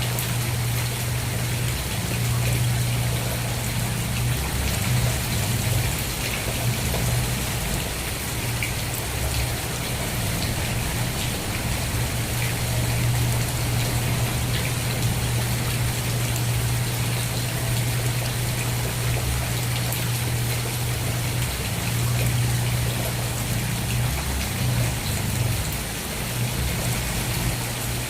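Steady rain falling, an even hiss of many drops, over a constant low hum that runs beneath it.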